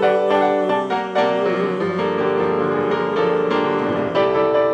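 Piano playing an instrumental passage of struck chords and sustained notes, with no singing. It leads from the end of one song into the next.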